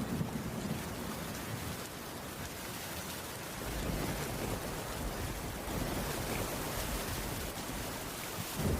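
Heavy rain falling on a wooden cabin roof, a steady hiss, under a low rumble of thunder that eases a couple of seconds in and builds again past the middle.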